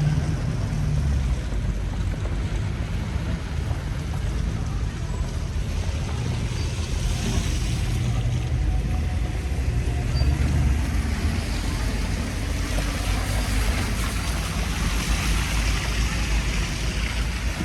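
Strong wind buffeting the microphone: an uneven low rumble that swells and fades, over a steady rushing hiss.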